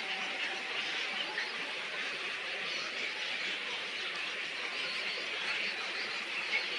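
Steady, dense chatter of many small birds calling at once, like a busy nesting colony.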